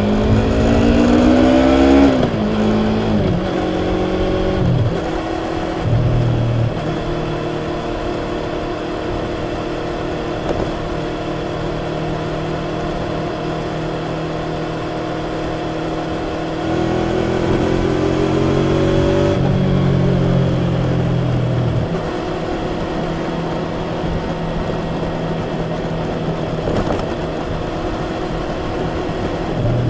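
Yamaha YZF-R25's parallel-twin engine through its stock exhaust while riding. It revs up at the start, drops back, and runs at a steady cruise. A little past halfway it revs up again, then falls back to a steady cruise.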